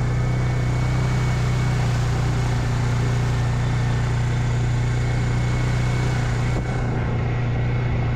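Engine of a four-wheel-drive farm utility vehicle running steadily as it is driven slowly over a wet dirt track, a constant low hum that holds the same pitch.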